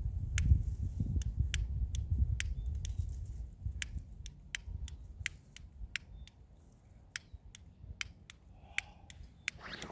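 A lighter being flicked again and again with sharp, irregular clicks, about two or three a second, as it fails to light. Low wind rumble on the microphone in the first few seconds.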